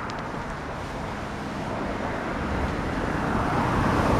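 Road traffic: a passing vehicle's tyre and engine noise, growing steadily louder as it approaches.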